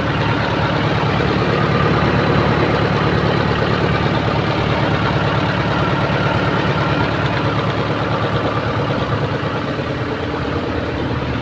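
Tractor engine running steadily at a constant speed, driving a PTO-driven water pump that draws water by suction from a gutter.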